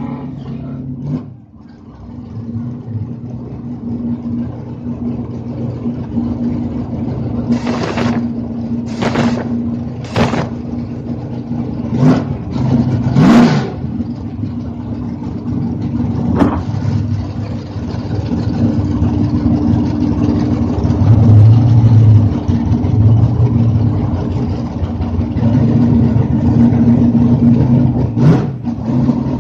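Drag race cars' engines idling at a steady rumble, with a run of sharp throttle blips about a quarter to halfway through and another near the end. The engine sound grows louder in the second half.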